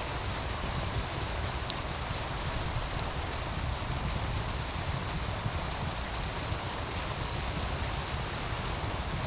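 Wood fire crackling, with a few sharp scattered pops, over the steady rush of a meltwater stream and a constant low rumble underneath.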